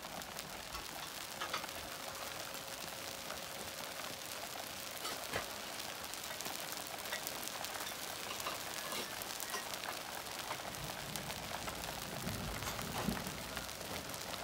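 Rain falling, an even hiss made of many small drop ticks.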